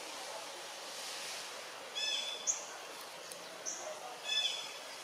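A bird calling over a steady outdoor hiss: a short, clear call with overtones about two seconds in and again just past four seconds, with two brief high chirps between them.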